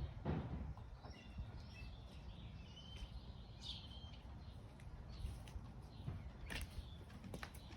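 Wild birds chirping in short, scattered calls over a low steady background rumble, with a few sharp clicks near the end.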